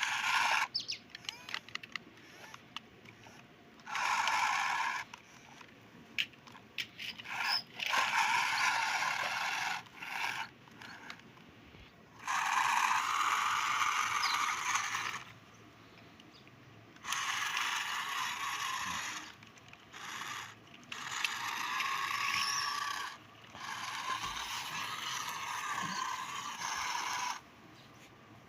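Toy truck's small geared mechanism whirring in about six runs of two to three seconds each, stopping briefly between runs.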